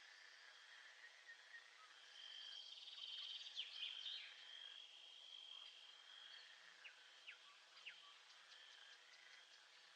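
Faint nature ambience: insects trilling steadily on one high pitch, the trill breaking off and resuming. A quick flurry of bird chirps comes about three to four seconds in, with a few single short chirps around seven to eight seconds.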